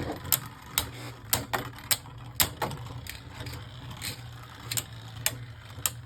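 Two Beyblade Burst spinning tops, Geist Fafnir and Luinor, battling in a plastic stadium. Irregular sharp clacks, about two a second, come as the tops hit each other and the stadium wall, over a steady low hum.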